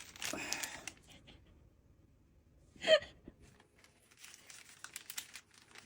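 Mostly quiet, with a short rustle near the start and faint scattered clicks, broken about halfway by one brief gasp-like voice sound.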